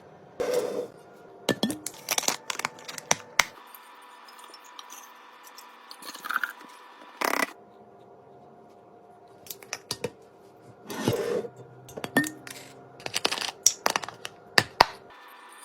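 Food packaging and containers being handled in short bursts: plastic crinkling and tearing, with sharp clicks and light knocks, separated by brief pauses.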